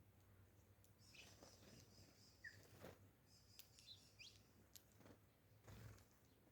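Faint bird calls: scattered short chirps and quick rising whistled notes, with a few soft clicks in between.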